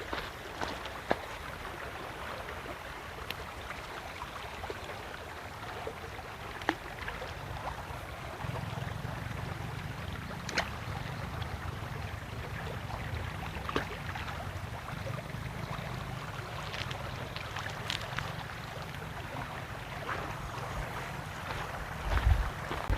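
Steady rush of running water, with scattered small clicks and knocks; a low rumble joins about eight seconds in.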